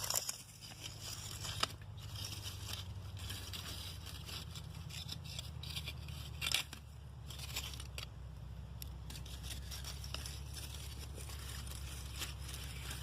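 Dry wood crackling and snapping in irregular sharp clicks, a few louder snaps among them, over a low steady rumble.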